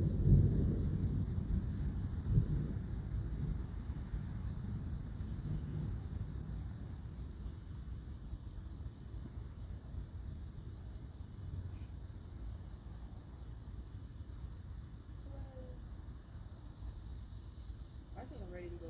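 Thunder rumbling and dying away over the first several seconds, with a sharper boom right at the start and another about two seconds in. Under it and after it, a steady high chirring of crickets.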